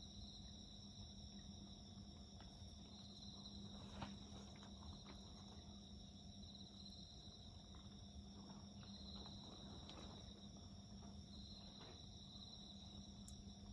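Faint steady chorus of insects chirping in a high, pulsing trill, with a low steady hum underneath. A wood fire gives scattered soft crackles and pops, the sharpest about four seconds in.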